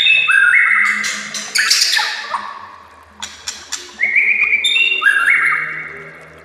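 White-rumped shama (murai batu) singing: two repeats of the same phrase, each a run of sharp clicks followed by clear held whistles stepping up in pitch and a harsh raspy sweep that fades away. The phrases come about every four seconds.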